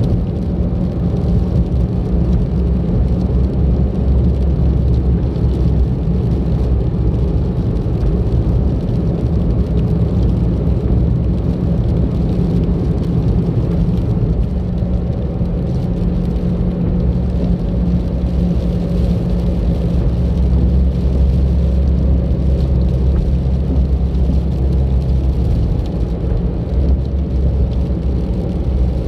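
Car driving, engine and tyre noise making a steady low rumble.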